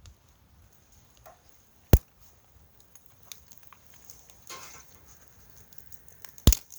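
Two sharp knocks about four and a half seconds apart, with light rustling and small clicks between them.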